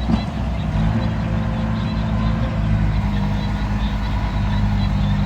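Heavy diesel engine of a bulldozer or dump truck running steadily at low speed, with a brief knock just after the start.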